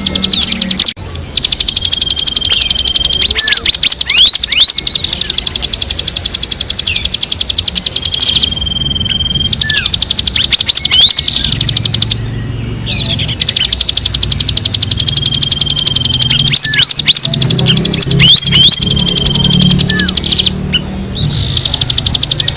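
Recorded songbird calls used as a bird-calling recording: a fast, continuous high trill overlaid with many quick rising chirps and short held whistles. It breaks off briefly twice and resumes in a repeating pattern.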